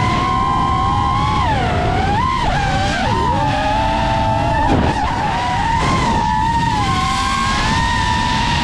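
Seven-inch FPV quadcopter's motors and propellers whining, several close tones sliding down and back up as the throttle changes, over a steady low rush of wind.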